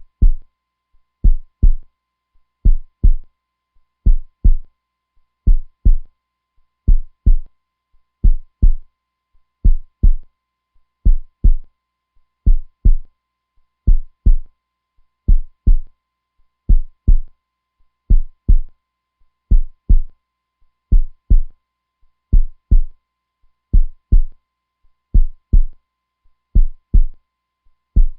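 Heartbeat: a steady, slow lub-dub rhythm of paired low thumps, about one beat every second and a half.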